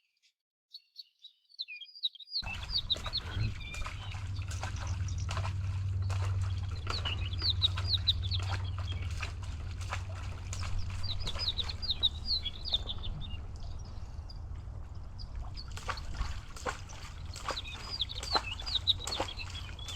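Small birds chirping in quick repeated series. From about two seconds in, a steady low hum and noise with scattered clicks run underneath.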